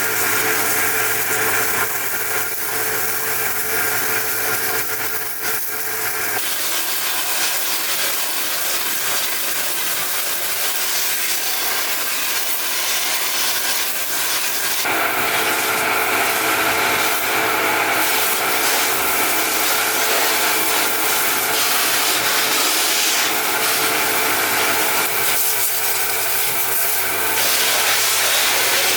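Electric hand power tool running steadily and rubbing against a surface, with a hum under a strong hiss. Its sound changes about six seconds in and again about halfway through.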